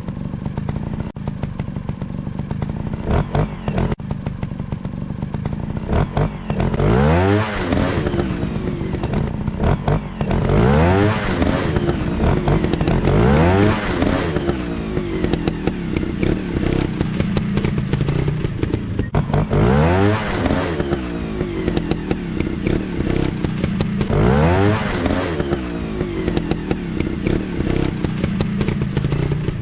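Motocross dirt bike engines running and revving up again and again, with about five sharp rises in pitch as the bikes accelerate.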